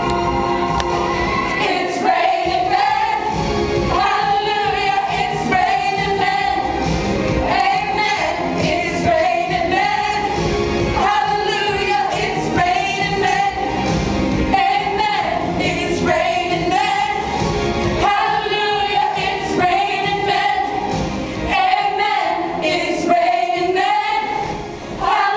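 A girls' vocal group singing a pop medley together over a steady beat.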